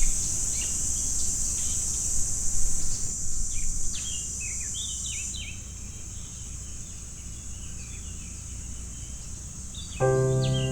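Small birds chirping with short, falling notes over a steady, high-pitched insect drone that cuts off about halfway through. Soft instrumental music with held notes comes in near the end.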